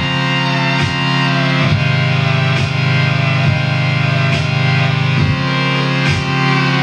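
Live band music: an instrumental passage of sustained guitar chords over a steady beat that lands a little less than once a second.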